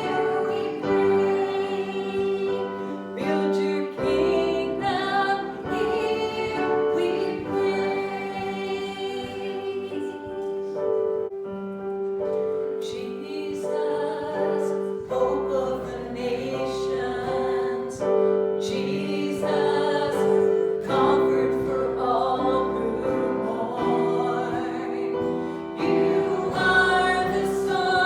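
Many voices singing a hymn together in sustained, held phrases.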